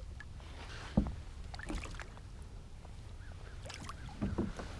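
Faint water and small-boat handling sounds over a low, steady wind rumble on the microphone, with a single sharp knock about a second in and a few light clicks near the end.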